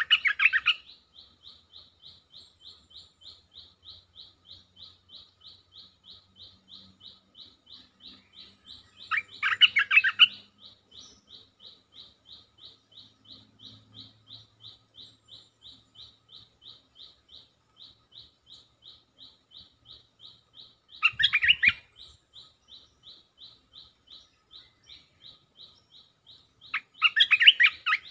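A bulbul sings four short loud phrases, each about a second long, spaced several seconds apart. Under them runs a steady, fainter, higher-pitched pulsing at about four pulses a second.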